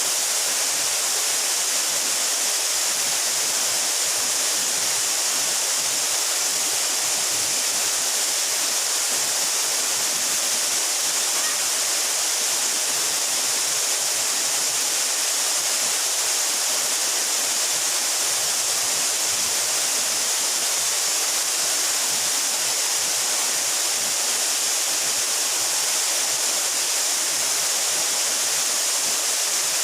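Mountain waterfall about 12 metres high, pouring steadily in an even, unbroken hiss of falling water.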